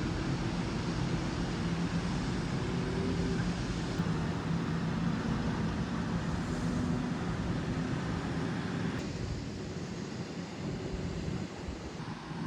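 Steady vehicle or engine drone with a low hum over a noisy rush, changing abruptly about four and nine seconds in.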